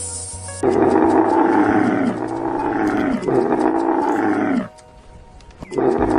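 A large animal roaring: four long, loud calls whose pitch drops at the end of each, the first three back to back and the fourth after a short pause.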